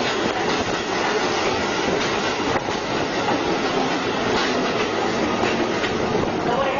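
Train running along the track: a steady noise of wheels on rail, with faint clicks now and then.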